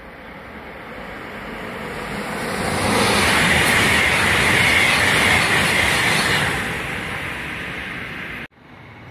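A high-speed train passing close at speed: a loud rushing noise that swells over about three seconds, holds for a few seconds, then fades, and is cut off abruptly near the end.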